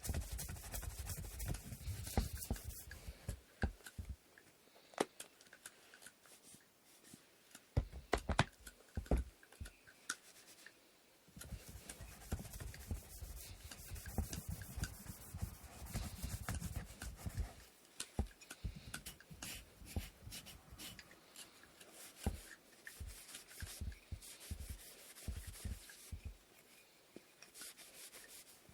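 Sandpaper rubbing on the wooden parts of an inkle loom in hand-sanding strokes, coming in stretches of a few seconds, with scattered light clicks of the wood being handled.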